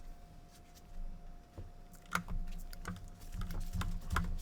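Light, irregular clicks and taps of hands handling the opened PS4's plastic parts and cable connectors, over a faint steady hum.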